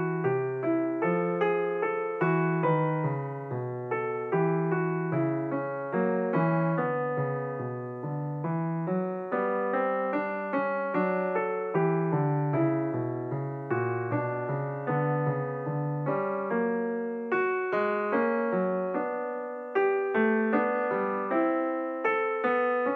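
Background piano music: a steady flow of struck notes, each fading after it is played.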